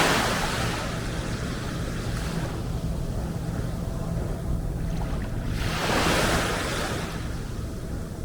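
Small sea waves washing up on a beach, two surges: one at the start, another about six seconds in, each swelling into a hiss and falling away, over a steady low rumble.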